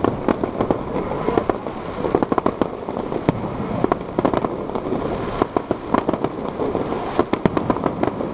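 Aerial fireworks display: a steady run of sharp bangs and crackling pops from bursting shells, with tight clusters of pops partway through and again near the end.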